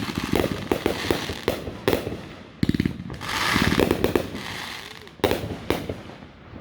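Fireworks going off: a series of sharp bangs, with a rapid string of reports a little under three seconds in, then a crackling hiss, and another loud bang about five seconds in.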